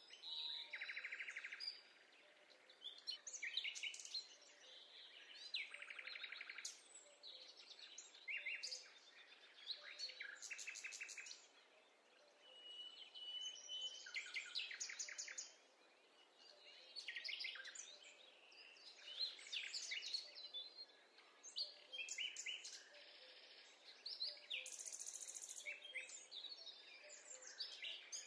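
Several songbirds singing in a forest, short fast trills and chirps overlapping every second or two over a faint steady hiss.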